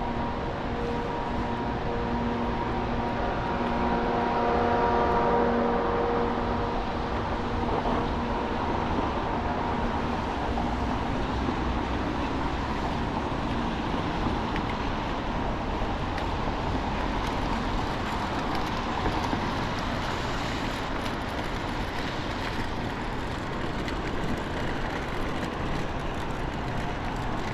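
City street traffic on rain-wet roads: a continuous wash of passing vehicles and tyre noise. A steady pitched hum sits over it for roughly the first ten seconds, then fades.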